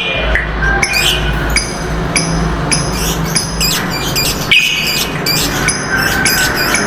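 Lovebirds chattering in the long, rapid trilled 'ngekek' call, several birds overlapping in fast, repeated high-pitched chirps.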